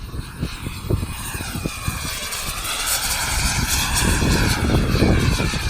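Small turbine engine of a radio-controlled model jet whining as the aircraft flies past, its pitch bending up and then down and growing louder until about five seconds in, with wind buffeting the microphone.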